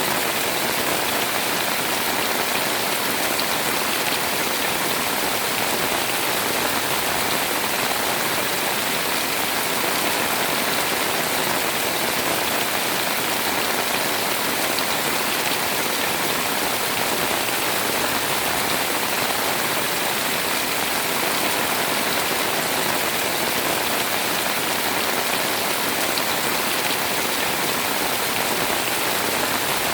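Heavy, steady rain pouring down, with scattered drops tapping on surfaces.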